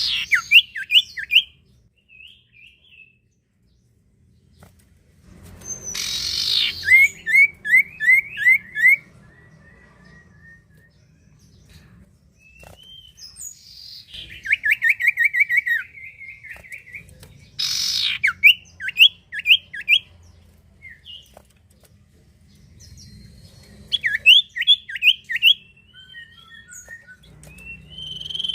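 Common iora (cipoh) singing: repeated phrases of quick, evenly spaced down-slurred whistled notes, several of them opened by a short harsh rasp, with pauses of a few seconds between phrases.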